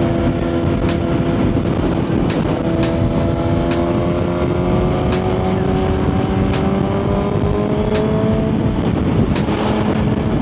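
Suzuki GSX-R1000 inline-four engine pulling under way, its note rising slowly for about eight seconds, then dropping and holding steady. Heavy wind noise on the helmet mic runs underneath, with scattered sharp clicks.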